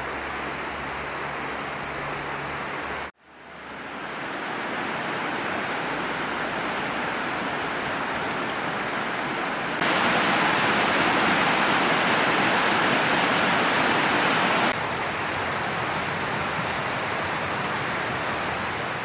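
Steady rush of flowing water, heard across several cut-together clips: it drops out briefly about three seconds in, and is louder between about ten and fifteen seconds.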